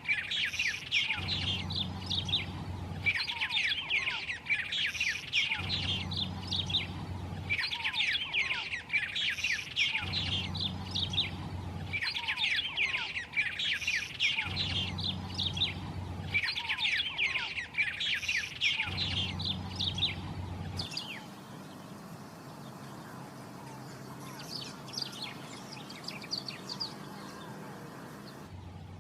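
White-rumped tanager singing: bursts of rapid, chattering notes repeated every two to three seconds. About 21 seconds in, the sound switches to a fainter, higher-pitched song.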